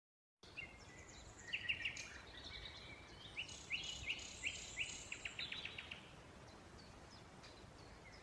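Birds chirping and singing: many short high chirps and quick repeated downward-sweeping notes, which die away after about six seconds, leaving a faint steady hiss.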